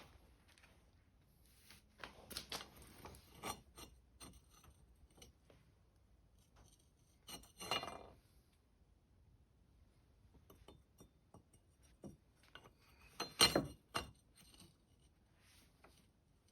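Scattered light clicks and taps from handling tools and materials, with a few short scraping rubs, the loudest about eight seconds in and again about thirteen seconds in.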